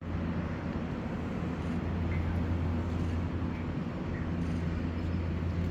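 Steady low hum and rumble of an Odakyu 8000 series electric train running on the line.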